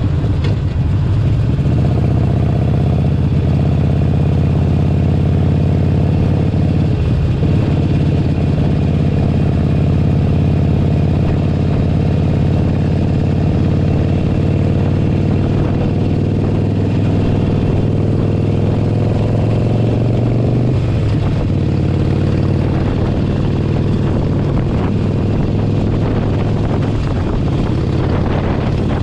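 Harley-Davidson Forty-Eight Sportster 1200's air-cooled V-twin running under way. Its pitch climbs slowly, breaks about seven seconds in, climbs again and falls sharply about twenty seconds in.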